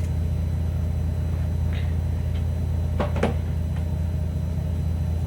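Steady low hum, with a brief faint sound about three seconds in.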